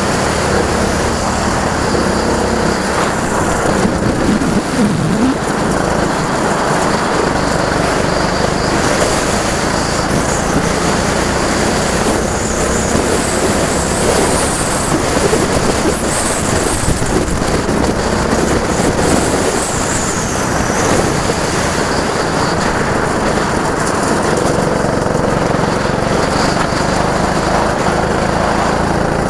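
Go-kart engines running on a track, loud and continuous, their pitch rising and falling as the karts accelerate and slow.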